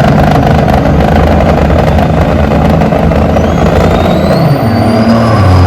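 Heavy diesel semi truck engine running loud, with a whistle that rises steadily from about three seconds in, typical of a turbocharger spooling up as the engine pulls.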